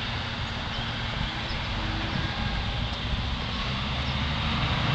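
Steady outdoor background noise with a low, even hum under it.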